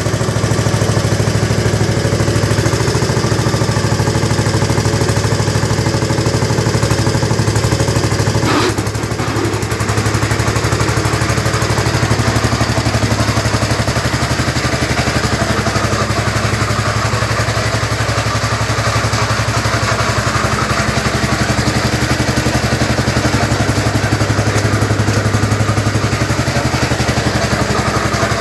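Montgomery Ward (Gilson) garden tractor's cast-iron Briggs & Stratton engine running steadily, with a brief dip and a click about nine seconds in.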